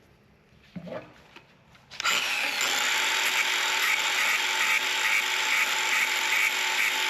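A high-speed power tool starts about two seconds in and runs steadily with a high whine, grinding smooth the freshly cut end of a steel brake line before it is reflared. A few light handling knocks come before it.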